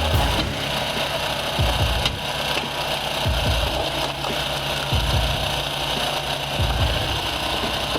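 Engine-driven hydraulic wood splitter running steadily, with a low thump about every second and a half.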